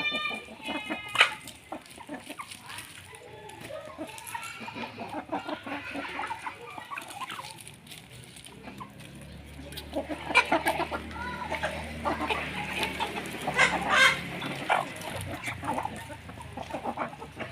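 A flock of chickens clucking as they feed on a termite nest, with many short, sharp clicks and scratches throughout. These grow busier and louder for a few seconds past the middle.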